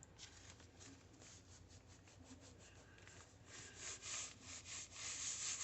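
Repeated rubbing strokes on paper, several a second. They are faint at first and grow louder in the second half.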